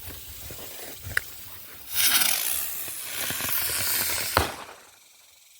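Helicopter-type spinning firework hissing loudly for about two and a half seconds, ending in one sharp bang, the salute report of a salute chopper.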